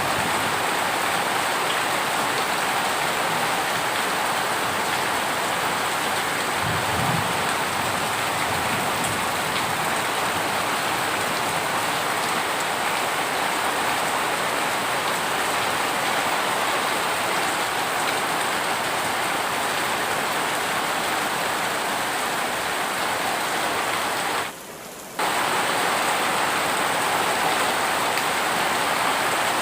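Heavy rain falling steadily, an even hiss. About 25 seconds in, the sound briefly drops away to a much lower level for under a second.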